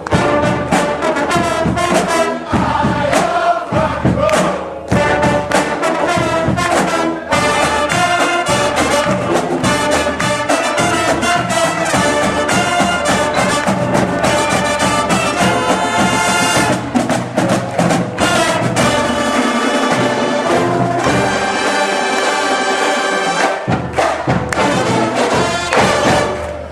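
German marching band playing, with brass (trumpets and trombones) over steady drum beats.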